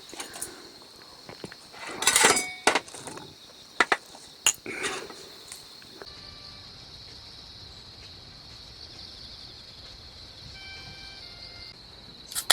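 Several sharp clinks and knocks of dishes and utensils during the first half, then a steady high chirring of crickets.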